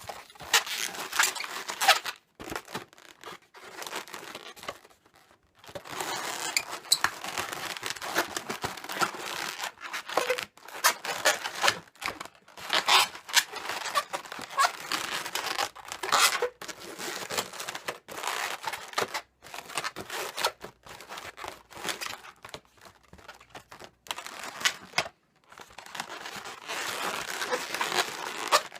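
Latex modelling balloons being handled and twisted, rubbing against each other in irregular scratchy bursts with short pauses.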